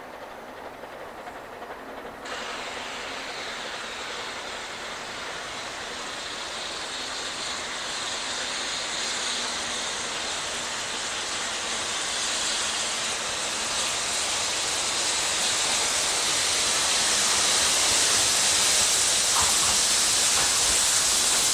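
Narrow-gauge double Fairlie steam locomotive hauling a train of wagons uphill, drawing steadily closer and louder. A loud hiss of steam starts suddenly about two seconds in and grows over the rumble and clatter of the train.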